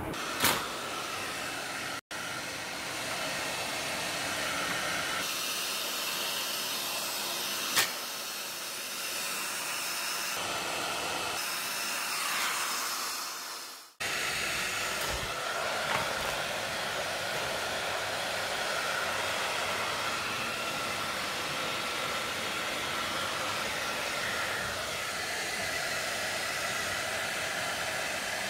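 Electric hair dryer blowing steadily, with a couple of sharp clicks, and the sound cutting out abruptly twice for a moment.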